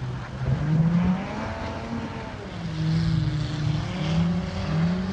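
Rally car engine on a snow track, its revs rising and falling several times as the car drives through the corners.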